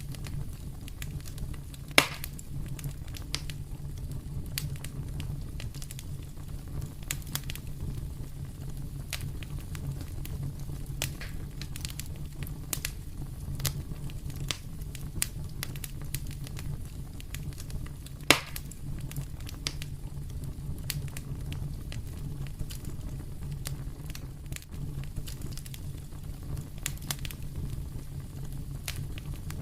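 Fire in a fireplace crackling, with many small irregular pops and two sharper, louder pops, one about 2 seconds in and one about 18 seconds in, over a steady low rumble.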